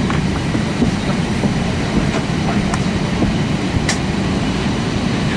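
Steady low rumble inside the cabin of a parked Airbus A320 before engine start: the cabin air conditioning running, with a few light clicks and knocks, the sharpest about four seconds in.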